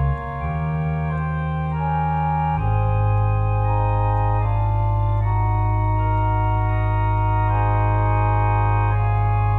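Organ playing slow, sustained chords over a deep held bass note. The chords change every second or two, and the bass moves to a new note about two and a half seconds in.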